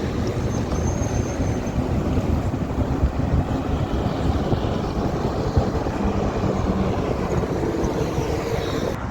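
Wind rushing over the microphone of a rider on a moving electric scooter: a steady noise with an unsteady low rumble, and no engine sound.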